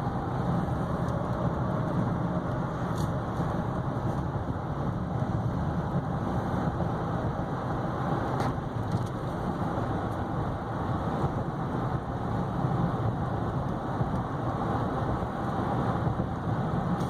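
Steady cabin noise of a 2015 GMC Yukon Denali XL cruising at an even speed: a low, unchanging hum of road, tyres and its 6.2-litre V8 engine, heard from inside the truck.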